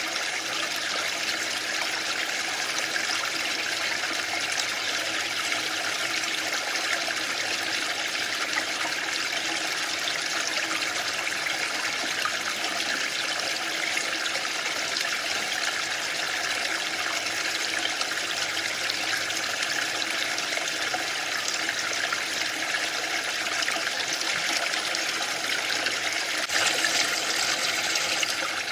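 Waterfall: a steady rush of falling water with no break, turning slightly louder and brighter for the last couple of seconds.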